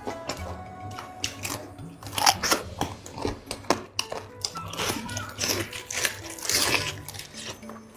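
Crunchy bites into crispy fried chicken, with repeated crackling crunches and chewing from about two seconds in, over background music.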